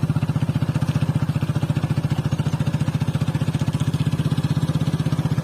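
Motorcycle engine running at a steady speed, with an even, rapid pulse.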